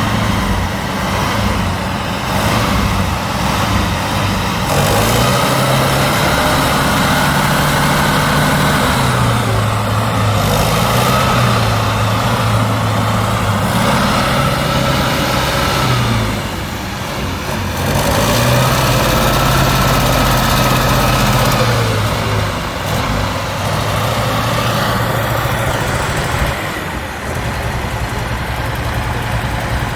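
Truck engine revving up and holding high revs three times, dropping back to a lower idle in between and near the end.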